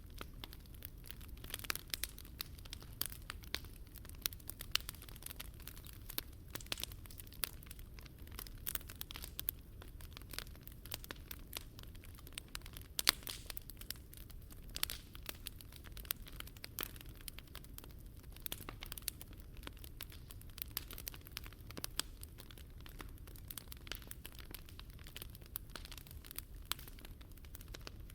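Wood fire crackling in a Picogrill fire pit: irregular sharp pops and snaps, some louder than others, over a low steady rumble.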